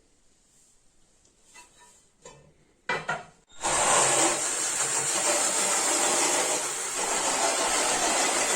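A couple of sharp knocks, then from about three and a half seconds in a loud, steady rasping noise of tool work on the stove.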